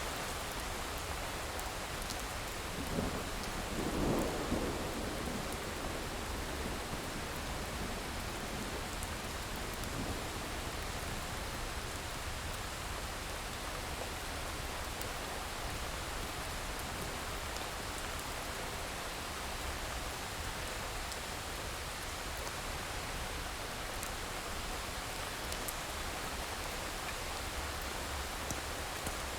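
Steady rain with a short rumble of thunder a few seconds in, and now and then a faint crackle from a wood fire.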